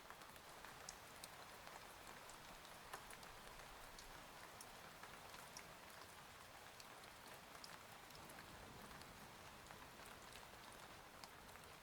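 Faint steady rain, with scattered sharp ticks of individual drops.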